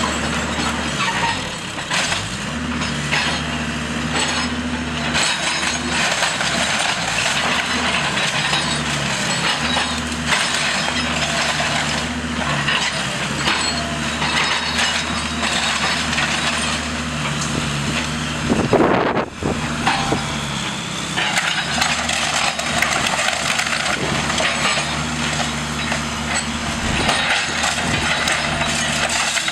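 Diesel engine of a heavy demolition machine running with a steady drone that rises and falls, while the house's wooden frame cracks, splinters and crunches as it is torn apart. About two-thirds of the way through there is a louder crash.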